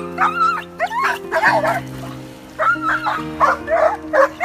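Dogs barking and yelping over and over in short, pitch-bending calls, agitated and anxious. Background music with held chords plays underneath.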